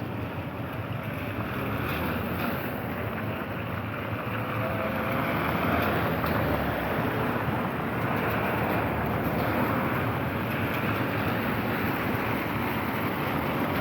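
Vehicles passing on a wet road: a steady hiss of tyres on water with engine noise, growing louder over the first few seconds and then holding.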